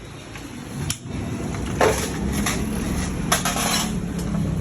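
Metal tools clinking and knocking against motorcycle water pump parts during disassembly, with a few sharp clicks and a short scraping burst near the middle. A steady low hum starts about a second in and runs underneath.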